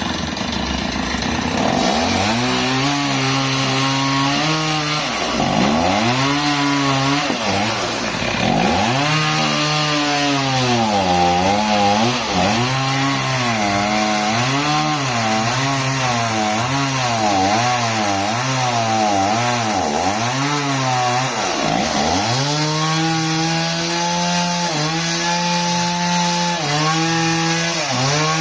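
Chainsaw engine cutting into a trembesi log, its pitch dipping under load and recovering again and again, then running at a steadier pitch in the last few seconds.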